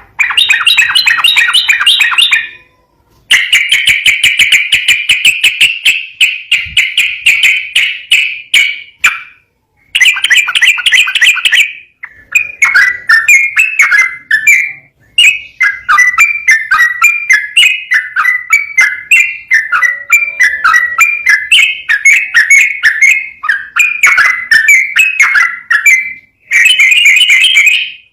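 Yellow-vented bulbul (trucukan) singing a long, rapid, continuous song: dense rolling trills broken by brief pauses, then choppier varied phrases, and a fast trill again near the end.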